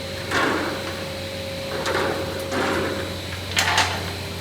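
Steady machine hum in a framing workshop, with a few short scraping or rustling handling noises and two sharp clicks near the end.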